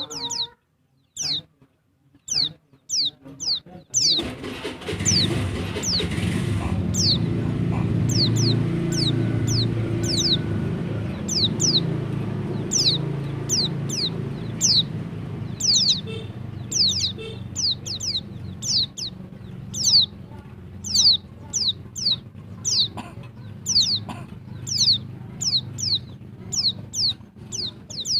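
Female white-eye (pleci) calling: short, high notes that slide downward, repeated about twice a second. From about four seconds in, a low rumbling background noise runs underneath.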